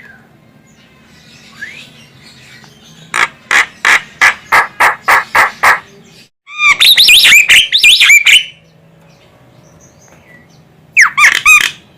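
Javan myna calling. About three seconds in comes a run of about nine short, harsh, evenly spaced notes, roughly three a second. Then comes a loud two-second burst of rapid chattering with rising and falling whistles, and another short chattering burst near the end.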